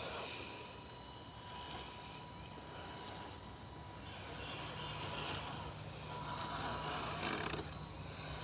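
Steady high-pitched chorus of crickets, unbroken.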